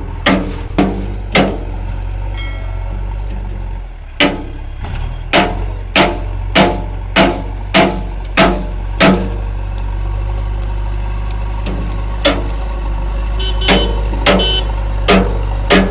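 Mahindra 575 DI XP Plus tractor's diesel engine running steadily, with sharp, evenly spaced thumps about every 0.6 seconds over it in two long runs.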